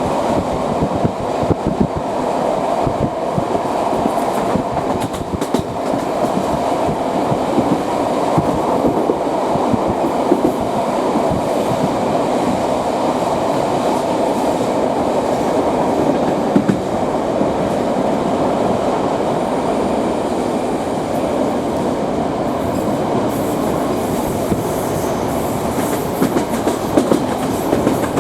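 Wheels of a D1 diesel multiple unit clattering over rail joints as the train runs along at steady speed, heard from inside a carriage over the continuous rumble of the moving train.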